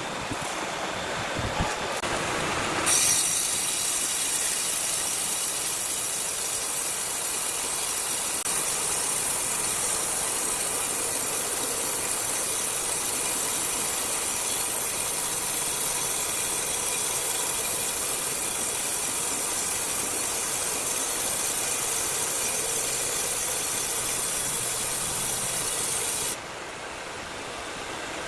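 Large wood saw cutting through timber: a steady, high hissing cut begins about three seconds in and stops abruptly near the end, over the saw's quieter running before and after.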